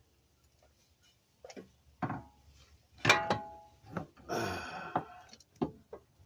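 Metal clanks and knocks from a new CV axle being handled and fed into place, with one loud ringing clank about three seconds in and a short scrape just after.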